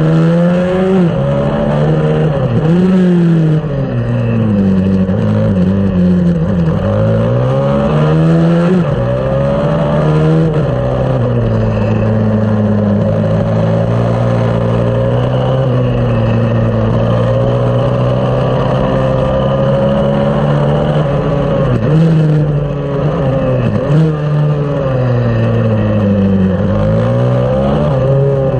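A 140cc pit bike engine at racing revs, its pitch climbing and then dropping several times through the gears. It holds high and steady through a long stretch midway.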